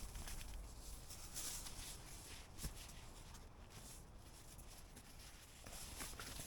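Faint rustling and scattered light clicks, with one sharper knock about two and a half seconds in.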